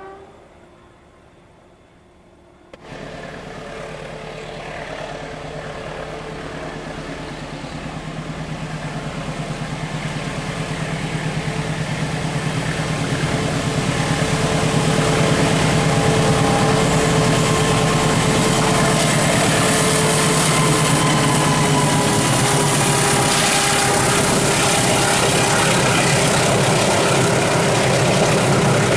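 Approaching train's diesel locomotive engine, a steady drone that cuts in about three seconds in and grows steadily louder as the train nears, then holds loud with rail and wheel noise.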